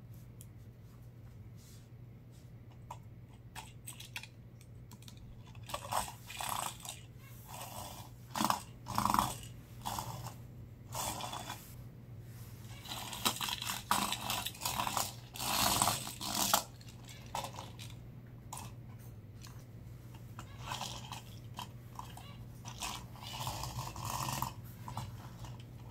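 Irregular crunching, rustling and clicking of small objects being handled, coming in bunches with pauses between, over a steady low hum.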